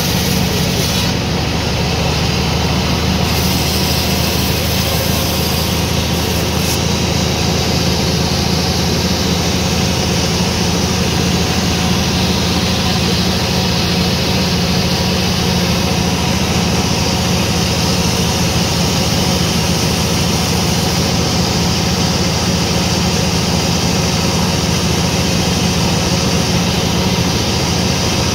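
Sawmill machinery running steadily: a constant low mechanical drone with a hum underneath.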